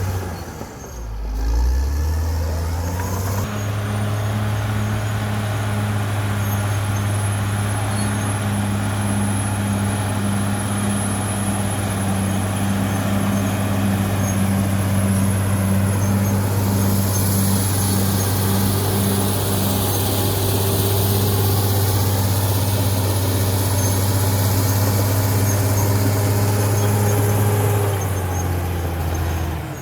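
CAT D6R XL bulldozer's diesel engine running steadily at working speed, after a brief dip and lower note in the first few seconds. A high hiss rises over it in the second half.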